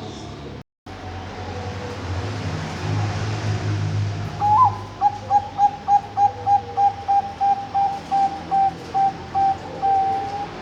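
Bangkok-type zebra dove (perkutut) singing: a rising opening note about four and a half seconds in, then a quick run of about fifteen evenly spaced coos at one pitch, ending in a longer held coo. A low hum is heard before the song.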